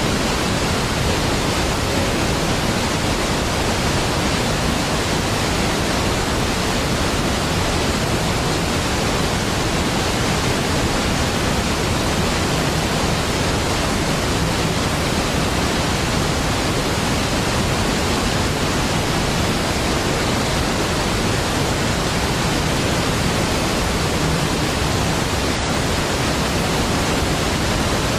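Steady rushing of water from a large waterfall, Niagara Falls, an even wash of noise from deep rumble to high hiss.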